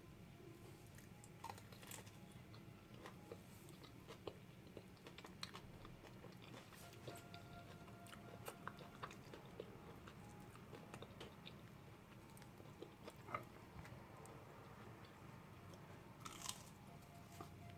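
Crunching and chewing of breadcrumb-coated baked zucchini being eaten, heard as scattered crisp crackles.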